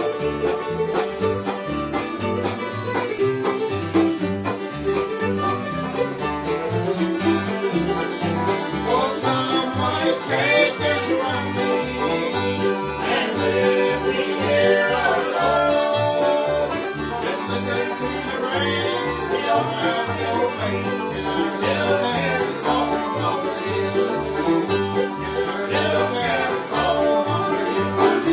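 Instrumental bluegrass playing with no singing: a banjo picking over acoustic guitar, with a steady rhythmic bass pulse and some sliding bowed notes.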